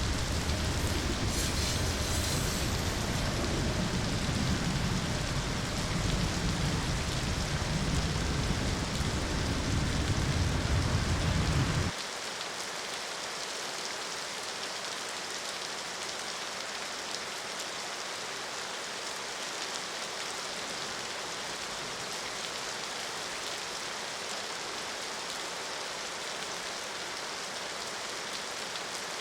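Steady rain hissing, with a deep low rumble beneath it that cuts off suddenly about twelve seconds in, leaving only the rain.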